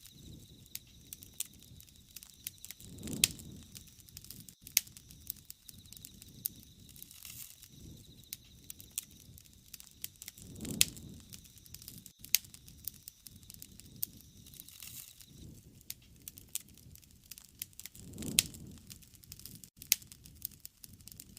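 Wood fire burning, crackling and popping in many sharp snaps, with a low rushing swell about every seven or eight seconds.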